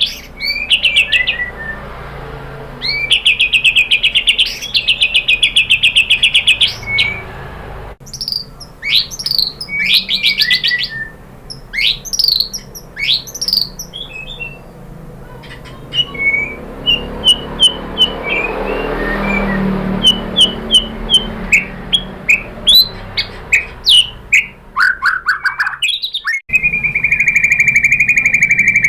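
White-rumped shama (murai batu) singing loudly: fast buzzy trills alternating with varied whistles and runs of sharp chip notes. After a sudden break near the end, a long steady whistle begins that slowly falls in pitch.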